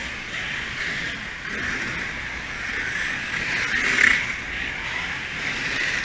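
Small radio-controlled midget sprint cars running on the track, a steady whirring of motors and gears that swells about four seconds in as a car passes close.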